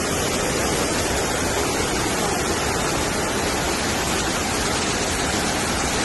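Fast-flowing floodwater rushing past in a steady, unbroken wash of noise.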